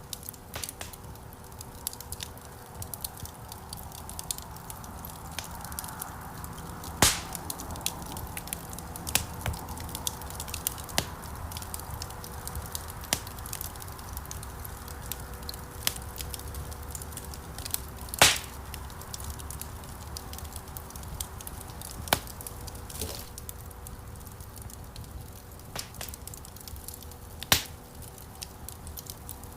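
Wood fire crackling in a stone fireplace: a steady low rustle of burning logs with constant small crackles, and a few louder sharp pops scattered through.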